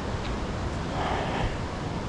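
Steady rushing of river water below a waterfall, swelling slightly about a second in.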